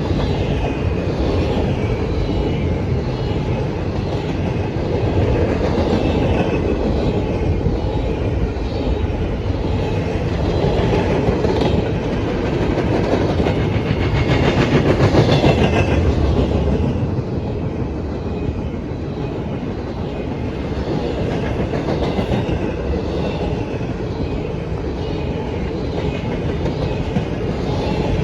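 Freight train rolling past: a steady rumble of the cars with repeated clickety-clack of wheels over rail joints, loudest about halfway through.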